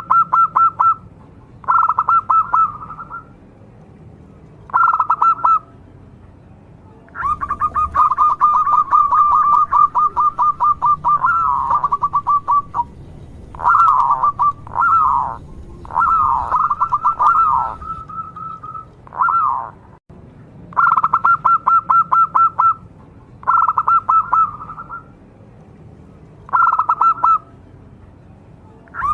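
Zebra dove (local perkutut) singing: bursts of fast staccato cooing notes, some under a second long and one running about five seconds, repeated with short pauses between them.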